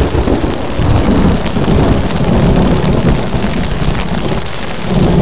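Heavy rain pouring onto a nylon tent fly, heard from inside the tent, under a long, loud rolling rumble of thunder.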